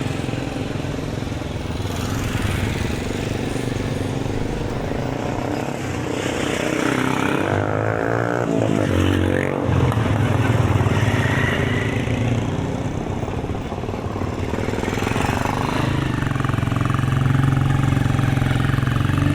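Street traffic: motorcycle and vehicle engines running steadily, with one engine passing close about halfway through, its pitch sweeping as it goes by.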